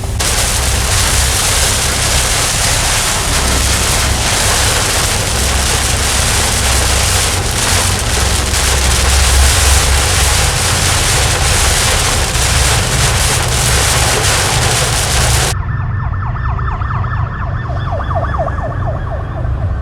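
Loud rushing wind noise on the microphone with a deep rumble. After a sudden cut about three quarters of the way through, an emergency vehicle siren wails, rising and falling quickly.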